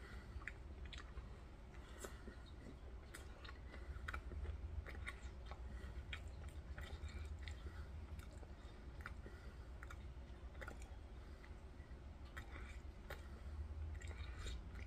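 A person chewing a mouthful of chicken salad sandwich on a soft roll with lettuce, faint wet mouth clicks and smacks scattered irregularly throughout.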